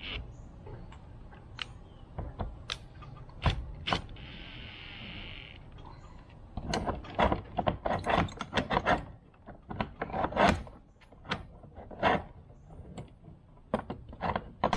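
Irregular metallic clicks and knocks of steel latch hardware being handled and worked, coming thick and fast in the middle, with a brief hiss about four seconds in.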